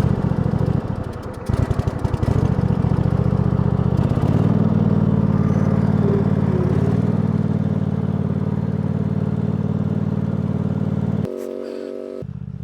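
A gasoline engine that has just started after refuelling, running unevenly at first and then settling to a steady run, with a change in its note near the end.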